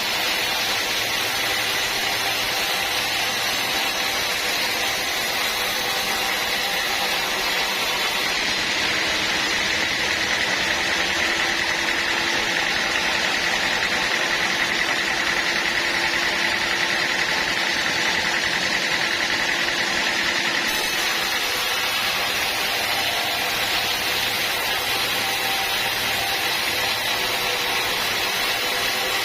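Sawmill machinery running steadily while sawing teak logs: a constant mechanical drone with a high whine that grows stronger for a stretch in the middle.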